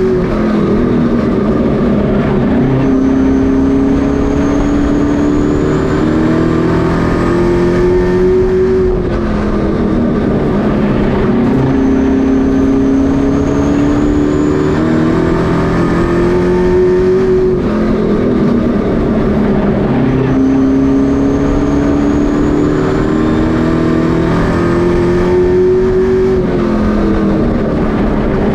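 Pro truck racing engines under full throttle on a short oval track. The engine pitch climbs for several seconds and then falls off sharply, as if lifting for a turn, in a cycle that repeats about every nine seconds.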